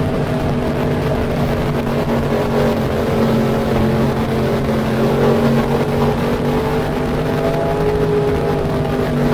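Race car engines running on track at steady throttle, a constant engine drone whose pitch barely changes.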